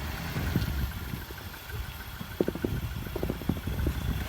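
An engine running steadily at idle, with a few short knocks or scrapes about halfway through.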